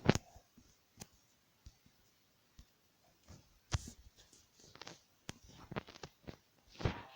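Irregular clicks and knocks, a dozen or so short hits at uneven intervals, the loudest just after the start.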